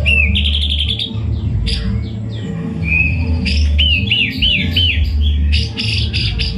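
White-rumped shama (murai batu) singing: a run of clear whistled notes, several slurring up then down, over backing music with a steady bass and a regular shaker-like beat.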